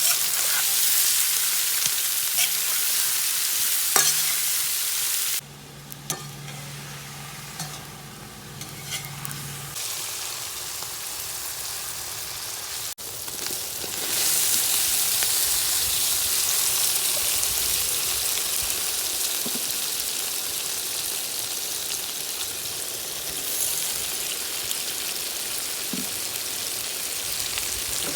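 Food frying in hot oil in a kazan: a steady sizzle with a few sharp clicks of a utensil against the pot. About five seconds in the sizzle drops away for several seconds behind a quieter low hum, then returns louder.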